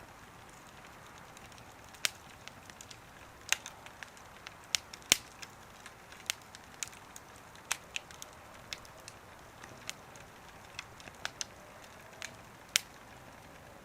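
Wood fire crackling, with sharp, irregular pops and snaps, about twenty of them, over a faint steady hiss.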